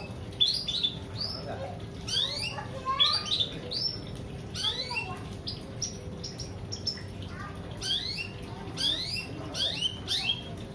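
A bird chirping busily: a run of quick, upward-sweeping chirps, sometimes in close clusters, going on throughout.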